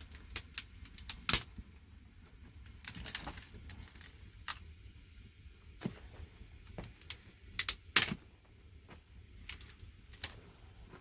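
Irregular sharp clicks and knocks of small hard objects being handled, the loudest about a second in and near eight seconds, with a brief scraping rustle about three seconds in.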